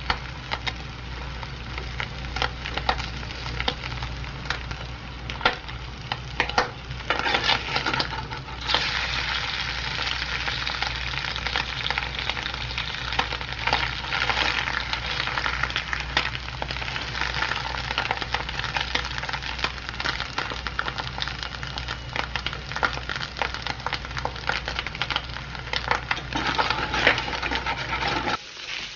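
Food frying in a hot pan: a steady sizzle full of crackles and pops, which grows denser and louder about a third of the way in. It cuts off abruptly near the end.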